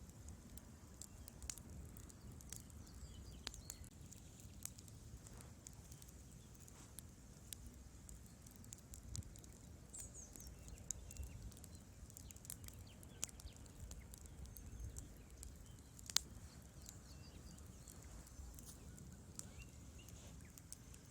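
Wood logs burning in a fireplace, crackling with irregular small pops over a low steady rumble of the flames; one louder, sharper pop stands out about sixteen seconds in.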